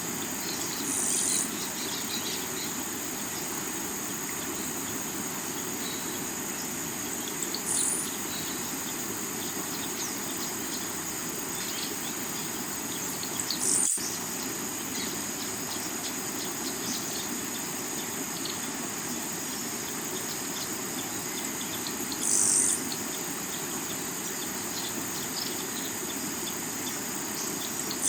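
River water running steadily over rocks, under a steady high insect trill. Short high bird calls break through five times, about every six seconds.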